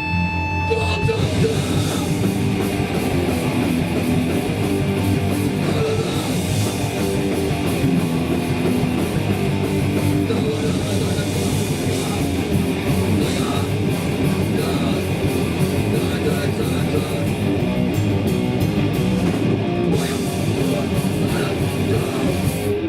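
Hardcore punk band playing live: loud distorted electric guitars, bass and drums, ending abruptly as the song finishes.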